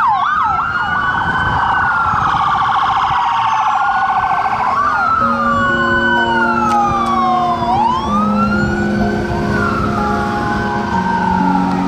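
Several emergency-vehicle sirens sounding together, a fast yelp at first, then slow rising and falling wails overlapping. From about five seconds in, held keyboard-like music notes come in underneath.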